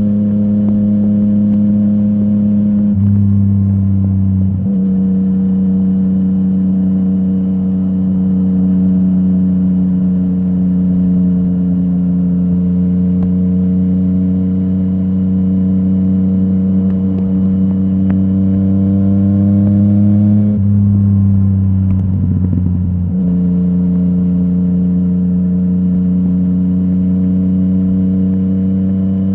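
Yamaha MT-09 crossplane three-cylinder engine running through a full Akrapovic exhaust, holding a steady engine note that slowly climbs in pitch. The tone changes briefly twice, a few seconds in and again about two-thirds of the way through.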